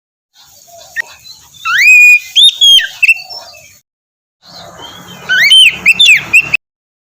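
Oriental magpie-robin (kacer) singing: two phrases of loud rising and falling whistled notes mixed with rougher chatter, separated by a short silence.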